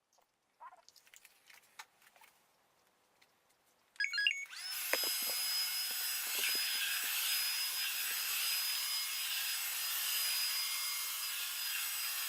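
Roomba robot vacuum starting up about four seconds in with a short tone, then running with a steady whir of its motor and brushes. A few faint clicks come before it.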